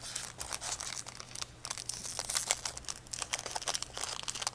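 Foil trading-card booster pack wrapper and cards being handled: irregular crinkling and rustling crackles.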